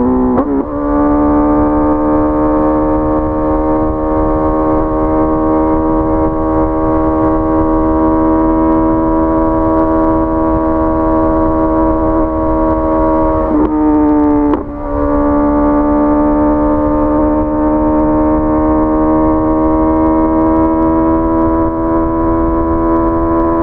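Honda CBR650R's inline-four engine pulling steadily under way, its note climbing slowly. The note dips briefly about half a second in and again around 14 seconds in, then picks up and keeps climbing.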